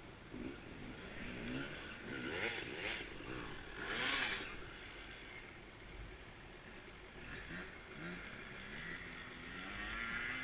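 Off-road motorcycle engine revving up and down on a trail, its pitch climbing and dropping several times, with a short hiss about four seconds in.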